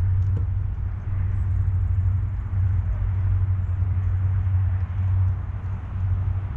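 A steady low rumble with faint high ticks over it.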